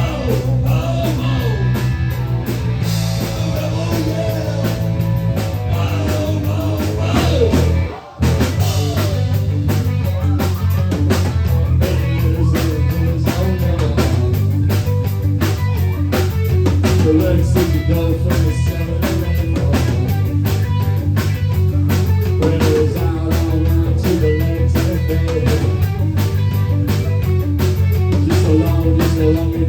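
Live rock band playing: electric guitar, bass and drum kit, with a vocal line, and a brief break in the sound about eight seconds in.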